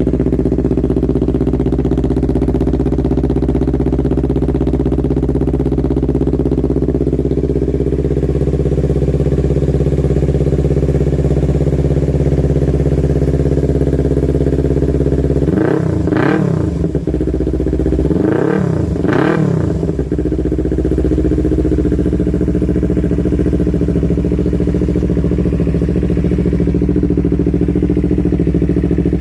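250cc motorcycle engine through a Proliner aftermarket racing exhaust, idling steadily. About halfway through, the throttle is blipped once, then twice in quick succession, each rev rising and dropping back to idle.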